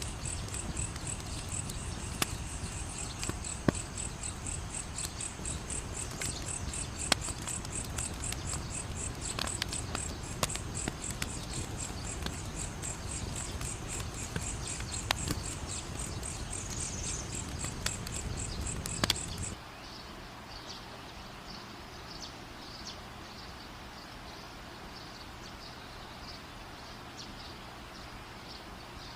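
Fire crackling with scattered sharp pops over a steady, rapid chirping of crickets and a low rumbling bed. About twenty seconds in, the sound cuts abruptly to a quieter bed with a softer, lower insect chirping and only a few faint pops.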